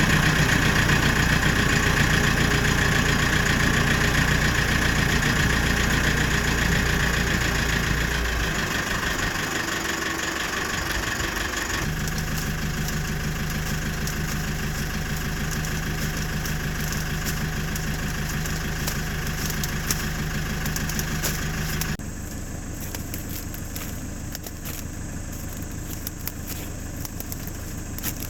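Farm machinery engines running steadily, with steady machine hum. The sound changes abruptly twice, about twelve and twenty-two seconds in, each time to a different and quieter engine sound.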